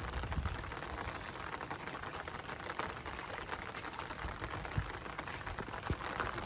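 Steady rain pattering, a dense rapid ticking of drops close by, with a couple of short dull thuds near the end.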